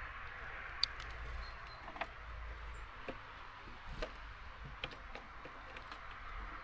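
Steady hiss of falling rain, with scattered light taps and clicks about once or twice a second.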